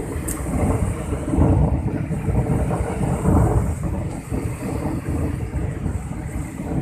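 Sea surf at the shore mixed with wind buffeting the microphone: a deep rushing noise that swells and eases every second or so.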